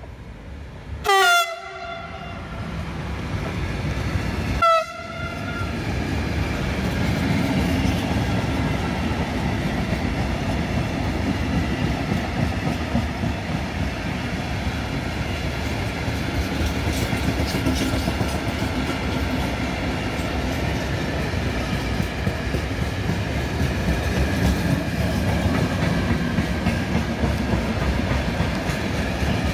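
Siemens Vectron electric locomotive sounds two short horn blasts, the first about a second in and a shorter one about four and a half seconds in. A long train of four-axle tank wagons then rolls steadily past at close range.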